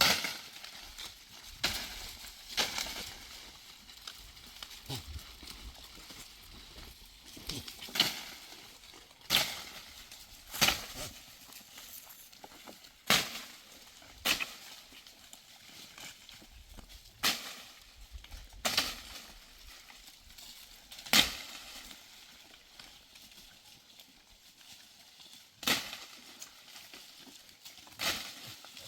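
A series of sharp, single knocks, about a dozen, spaced unevenly one to three seconds apart.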